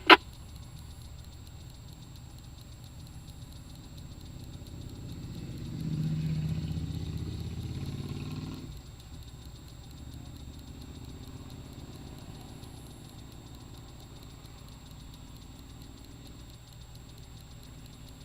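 Vehicle engine idling steadily, with a louder low engine swell from about six seconds in that drops off sharply near nine seconds.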